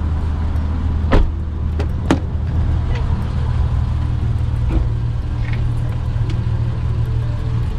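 Car running with a steady low rumble, two sharp clicks about a second and two seconds in.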